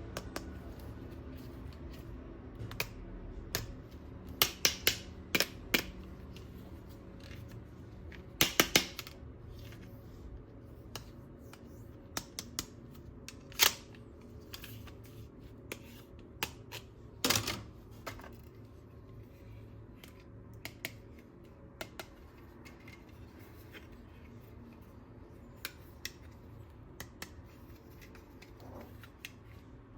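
Plastic toy-gun parts and packaging being handled: irregular sharp clicks and snaps, some in quick clusters of three or four, with a few louder single snaps.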